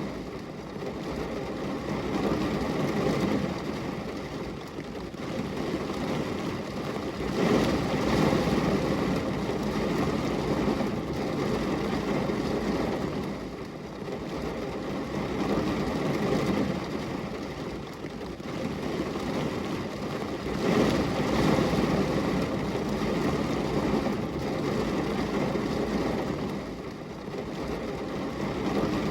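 Rain on a glass window: a steady rushing noise, heaviest low down, that swells and eases every few seconds.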